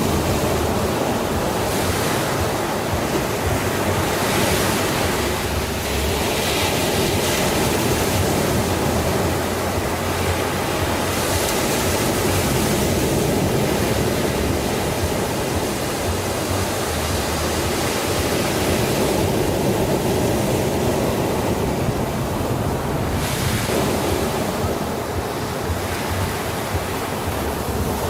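Sea surf washing onto a shore: a continuous rush of water, with a hissing swell as a wave breaks every few seconds.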